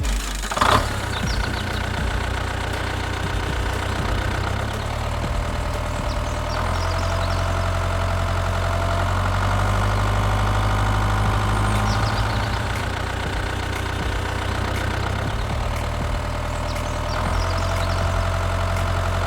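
Small engine of a DIY mini tractor running steadily, a little louder and higher from about six seconds in until near the end.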